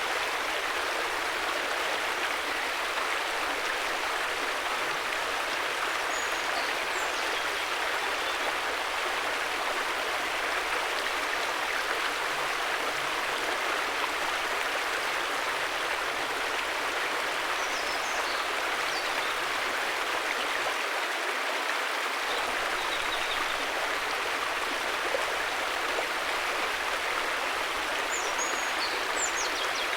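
River water flowing, a steady, even rushing, with faint high chirps three times.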